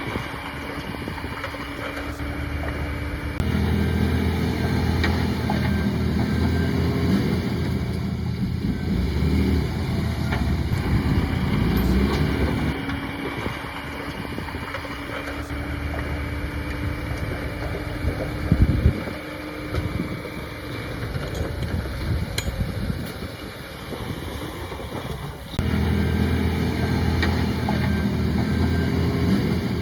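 Heavy diesel engine of earthmoving machinery working, its load rising sharply twice and easing off in between. There is a short loud knock about two thirds of the way through.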